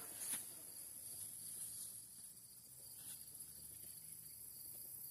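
Faint, steady high-pitched chirring of insects in the garden.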